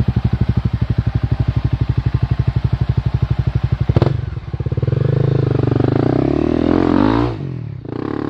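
Off-road motorcycle engine idling with an even pulsing beat, then, about four seconds in, revving up with a rising pitch and falling back about a second before the end, with one short blip of throttle near the end.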